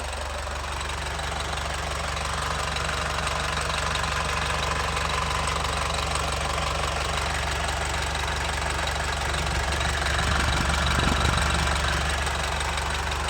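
Toyota 14B four-cylinder diesel engine idling with a steady diesel knock, swelling a little louder about ten seconds in.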